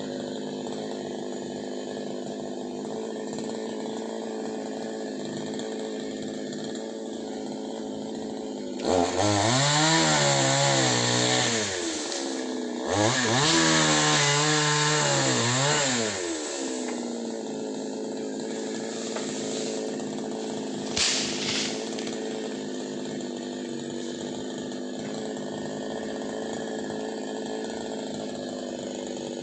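Two-stroke chainsaw idling steadily, then opened to full throttle twice for about three seconds each, about nine and thirteen seconds in, its pitch wavering as it cuts through a branch. It drops back to idle, with one short blip of throttle near the twenty-first second.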